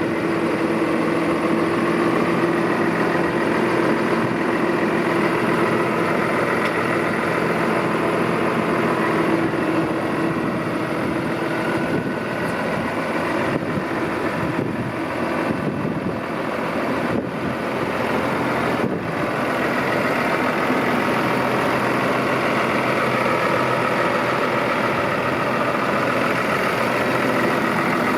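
New Holland T6.180 tractor's six-cylinder diesel engine idling steadily.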